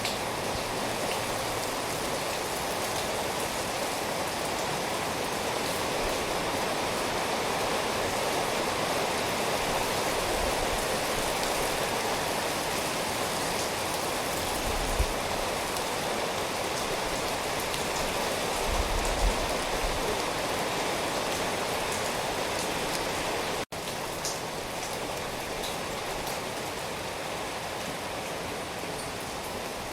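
Steady rain falling, an even rushing patter. A couple of low thuds come near the middle, and the sound cuts out for an instant about two-thirds of the way through.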